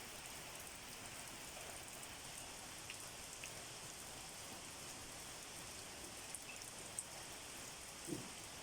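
Steady rain falling, with a few louder single drops now and then, the largest near the end.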